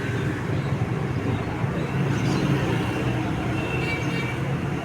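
Steady low rumble of road traffic, with a couple of faint short high tones a little over three and a half seconds in.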